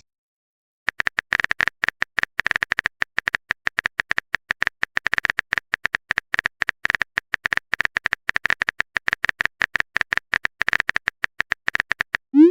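Phone-keyboard typing sound effect: rapid, irregular clicks, many a second, starting about a second in. Near the end a rising swoosh begins, the message-sent effect.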